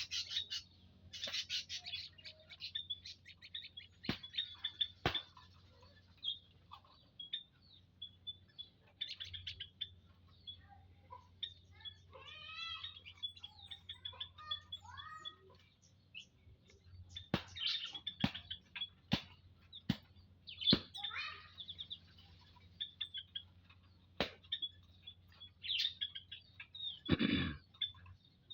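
Prenjak lumut birds in an aviary giving many short, high chirps, mixed with sharp clicks. About twelve seconds in there is a run of downward-sliding whistled notes. Near the end there is one louder rustling sound.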